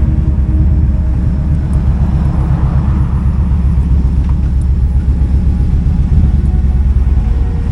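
Kawasaki Vulcan 2000's big V-twin engine running at low revs, a steady deep pulsing beat.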